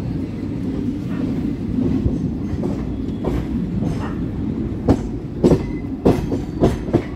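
Indian Railways train running along the track: a steady low rumble with sharp clacks of the wheels passing over rail joints, starting about three seconds in and coming several times in the second half.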